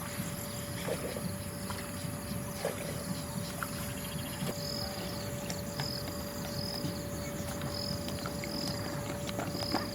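Insects buzzing and chirping: a steady high drone, with short high chirps about one a second in the second half. A low rumble, a thin steady hum and scattered small clicks run underneath.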